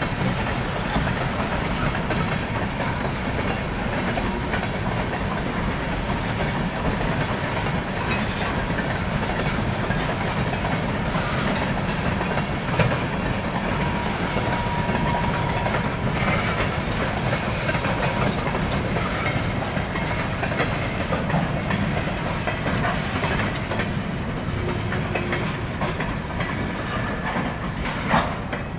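Freight train of boxcars rolling past, a steady rumble of steel wheels on rail with clickety-clack over the rail joints. A faint thin squeal comes and goes, and two sharp clanks stand out, one about halfway through and one near the end.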